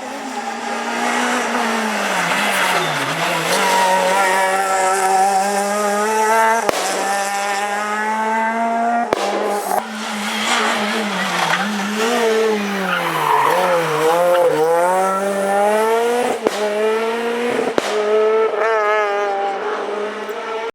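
Renault Clio R3 rally car's naturally aspirated four-cylinder engine revved hard, its pitch climbing and dropping repeatedly as it goes up and down through the gears. Several sharp cracks are heard along the way.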